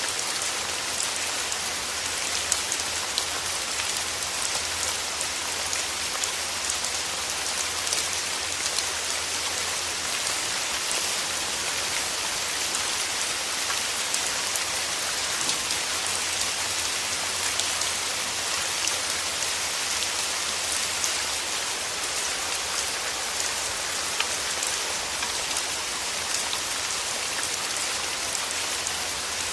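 Steady rain falling, a constant hiss with many small drops pattering on leaves and petals.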